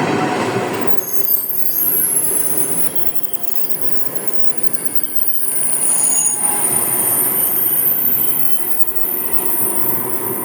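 Passenger train running past, its wheels giving a high-pitched squeal in several steady tones over the rumble of the cars, starting about a second in.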